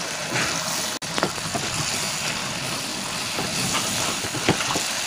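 Chicken pieces frying in green masala paste in a kadai, sizzling steadily while a wooden spatula stirs them, scraping and tapping against the pan a few times.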